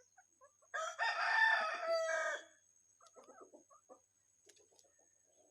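Rooster crowing once, a single call of under two seconds starting about a second in, followed by a few faint short calls.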